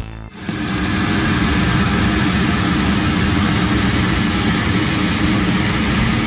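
Steady loud roar of aircraft turbine noise: a low rumble under an even hiss, starting about half a second in and holding level throughout.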